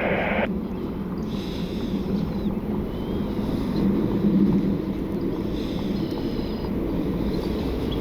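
An air traffic control radio transmission cuts off about half a second in, leaving a steady low rumble with a few faint chirps above it.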